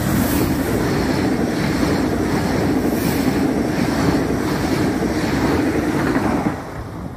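Frecciarossa high-speed electric train passing through at speed close by: a loud, steady rush of air and wheel-on-rail noise that falls away near the end as the last cars go by.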